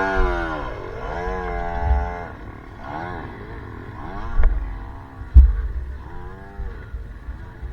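Trail/enduro dirt bike engine revving up and down over and over, about once a second, with two sharp knocks near the middle.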